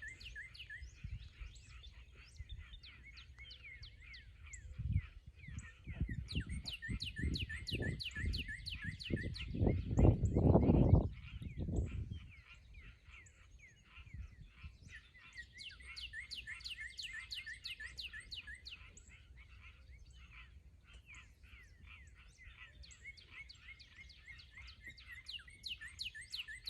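Songbirds chirping in long runs of quick, repeated down-slurred notes. Low rumbling thumps come between about five and twelve seconds in, loudest around eleven seconds.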